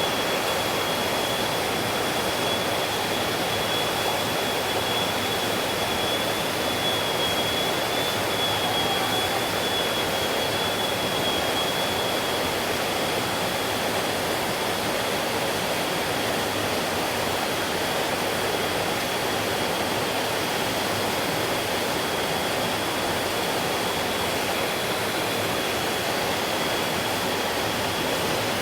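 Mountain stream water rushing steadily over rocks, a constant even noise, with a thin steady high tone running through it.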